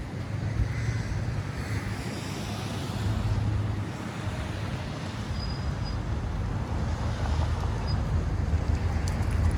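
Downtown street traffic: a steady low rumble of passing vehicles, growing a little louder near the end.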